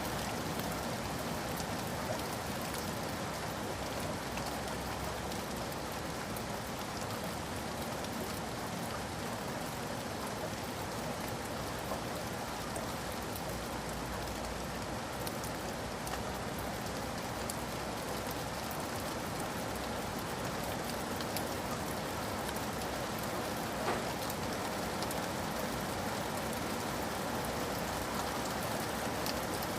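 Steady, even rain, with scattered small sharper drop ticks; one tick about three-quarters of the way through stands out a little.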